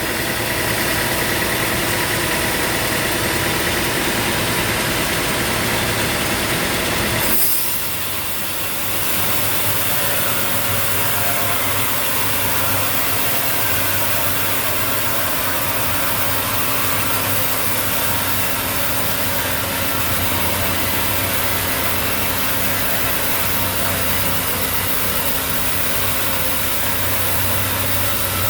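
Sawmill machinery running steadily, with a sudden change in its sound about seven seconds in, after which it runs on with a deeper hum.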